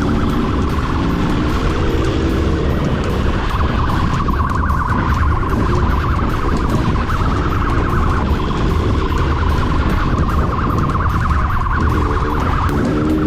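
Police motorcycle siren warbling rapidly and without a break, over a steady rumble of engine and wind noise from the moving patrol bike.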